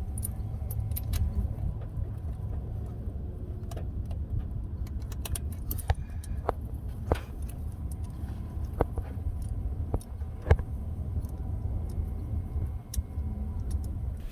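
Wrench and metal tools clinking and clicking while the bolts of a mechanical fuel pump are tightened on the engine block, with several sharper clicks in the second half, over a steady low rumble.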